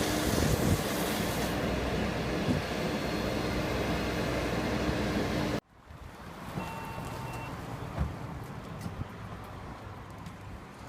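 Heavy vehicle engine running steadily under loud wind and open-air noise. It cuts off abruptly about halfway through. What follows is quieter outdoor noise with one short electronic beep.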